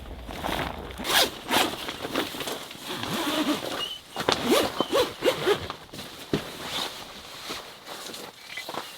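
A zipper being pulled in several quick strokes.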